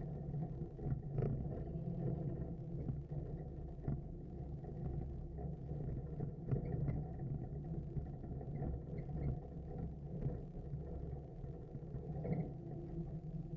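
Big-block V8 engine of a Suburban running steadily while driving, a low rumble with road noise.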